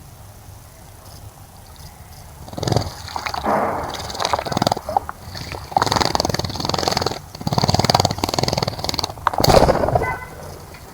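A bird bathing, fluttering its wings in the water in a series of loud, rapid splashing bursts.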